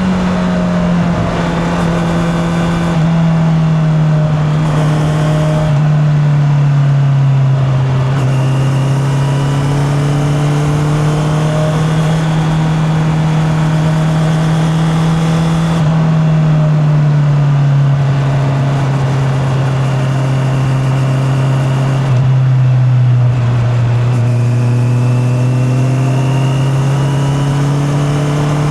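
Honda CB650R's inline-four engine running under way at moderate revs, its pitch dropping and climbing back twice as the throttle is rolled off and on. Heard from a microphone in the rider's back pocket.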